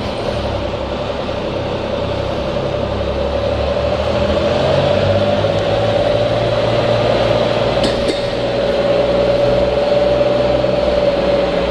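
Electric garage door opener motor running with a steady, slightly rising whine, over a low engine hum, with a faint click about eight seconds in.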